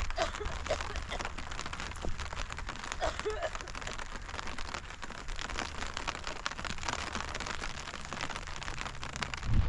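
Steady rain falling and pattering, a dense spray of fine drops, with a low steady rumble beneath.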